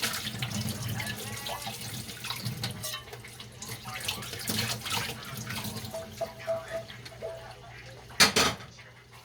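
Dishes being washed by hand in a kitchen sink: tap water running and splashing, with scattered clinks and knocks of dishware. A single louder knock or splash comes about eight seconds in.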